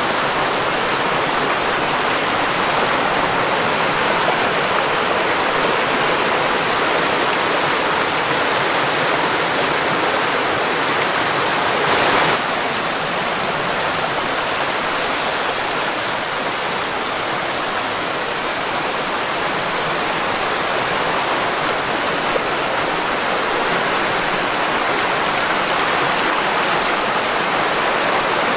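A small rocky creek running over little rapids and waterfalls: a steady rush and splash of water. About twelve seconds in, a short louder splash or rustle rises briefly over it.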